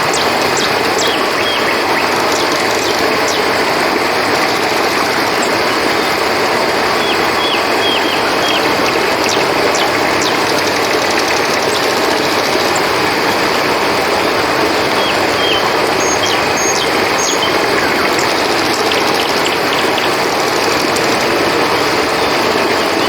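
Steady rush of flowing river water under a continuous high chorus of crickets, with small runs of three or four short, high chirps a few times.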